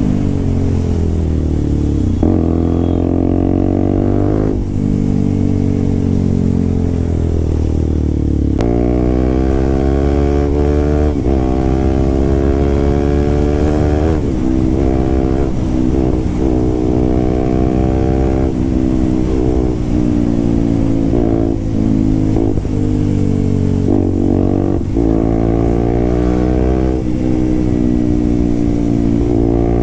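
Motorcycle with an SC Project aftermarket exhaust, loud, accelerating through the gears: the engine note climbs and drops sharply at each shift several times, with stretches of steadier running and easing off between.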